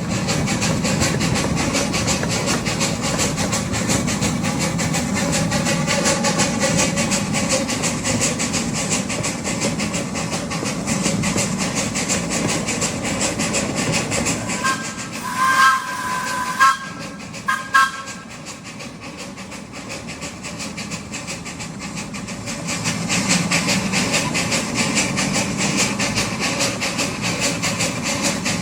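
Miniature ride train rolling along the track with a steady rumble and rapid rail clatter. About halfway through, the locomotive's two-note whistle gives one long blast and then two short toots; the running noise drops for a few seconds afterwards before building again.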